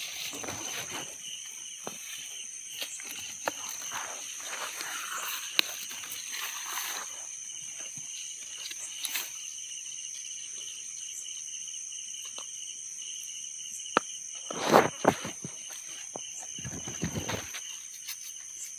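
Steady high-pitched insect chorus, with scattered rustles and light knocks; the loudest is a short burst of rustling about fifteen seconds in.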